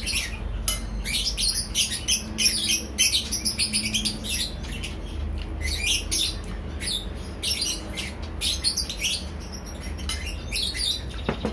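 Small birds chirping and twittering rapidly and continuously, over a low steady hum.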